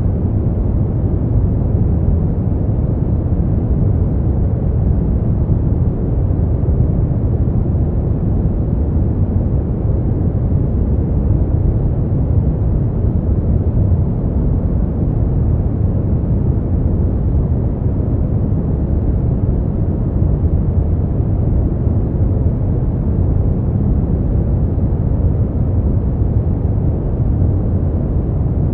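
Steady, unchanging noise played as sleep sound, called white noise but deep and muffled in character, with most of its weight at the low end like brown noise.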